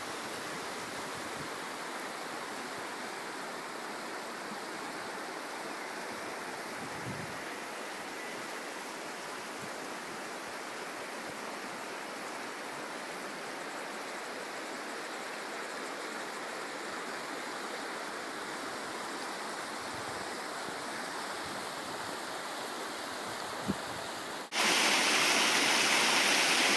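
The Arrow River rushing steadily, with no let-up; about 24 seconds in, the rush abruptly becomes much louder.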